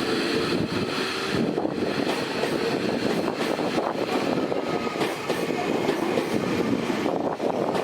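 Tobu Railway train running on the track: a steady rumble with a quick rattle of wheels and car body.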